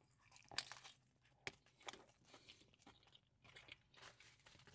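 Faint, irregular crunching and chewing of a burger mouthful, the crunch coming from a whole leaf of crisp lettuce, with a sharper crunch about one and a half seconds in.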